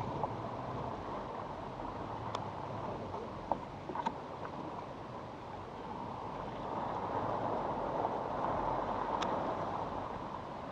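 Steady hiss of water and wind around a fishing kayak, with a few sharp clicks scattered through it.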